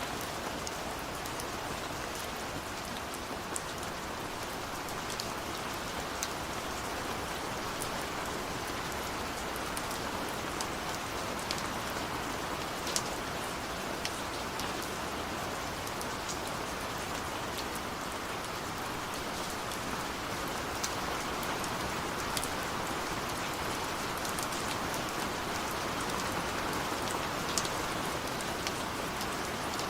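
Steady rain falling on a window, a dense even hiss with scattered sharp ticks of individual drops hitting the glass.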